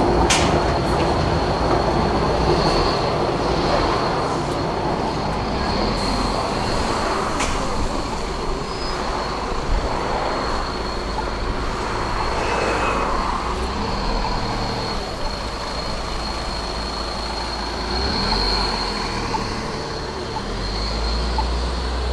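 A rail vehicle running on its track: a steady rumble with a thin, high squeal from the wheels held over it.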